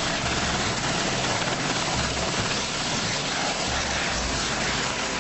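Helicopter in flight: a steady rushing rotor and engine noise with a low, repeated pulsing beat.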